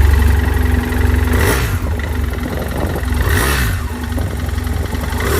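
BMW F800S's 798cc parallel-twin engine with 360-degree firing order, on its stock exhaust, idling with a steady low rumble and blipped twice on the throttle, about a second and a half in and again past halfway, the pitch rising and falling back each time.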